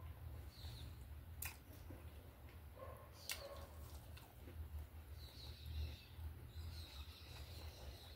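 Quiet chewing and biting of a breaded milanesa eaten by hand, with two sharp clicks about two seconds apart. Faint high chirps come in the second half over a steady low hum.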